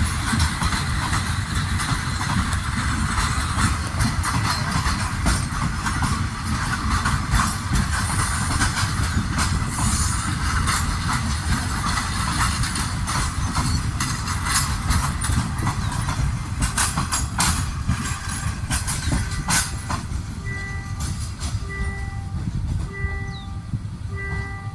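A passenger train running by, with a steady rumble and sharp clacks of the wheels over the rail joints. About twenty seconds in, a repeating chime starts, sounding about once a second.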